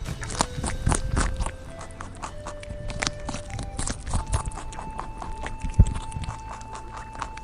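Horse hooves clip-clopping in quick, uneven clicks over background music with long held notes.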